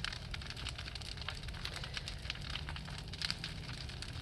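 Large wood bonfire crackling, with irregular sharp pops and snaps over a steady low rumble.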